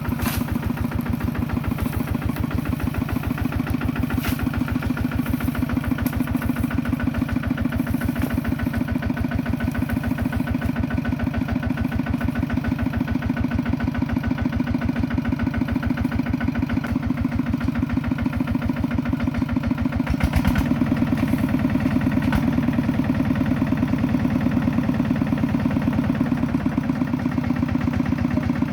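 Kubota tractor's diesel engine running steadily with an even pulsing beat; about twenty seconds in it gets a little louder and its note changes.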